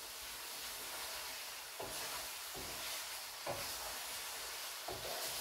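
Chicken pieces with ginger-garlic paste frying in oil and their own released water in a karahi, giving a steady hiss. A wooden spoon stirring them knocks against the pan three times.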